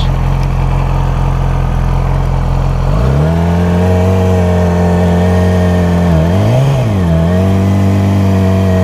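Motorcycle engine idling steadily, then pulling away about three seconds in as the engine note rises and settles. The note dips and recovers briefly a little after six seconds.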